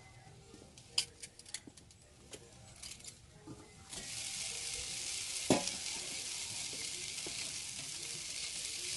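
Sauced teriyaki chicken wings sizzling over direct charcoal heat on a kettle grill. Metal tongs click against the wings and grate during the first few seconds; the steady sizzle comes in abruptly about four seconds in, with one sharp tong knock shortly after.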